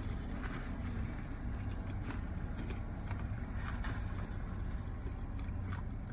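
Scattered crunching of airy freeze-dried Laffy Taffy being bitten and chewed, short crackly clicks every second or so, over a steady low rumble.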